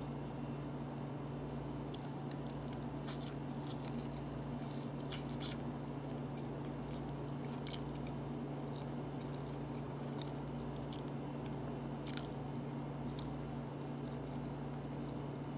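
A person chewing and eating rice and meat by hand, with small sharp mouth clicks and smacks every second or two, over a steady low hum.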